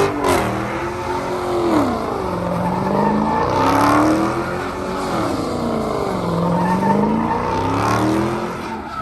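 Car engine revving up and falling back in long swells every few seconds, with tires squealing, as a car is driven hard in circles or spun.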